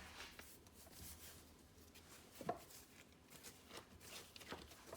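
Faint rubbing and patting of hands pressing, folding and rolling batch bread dough on a floured worktop, with one sharper tap about halfway through.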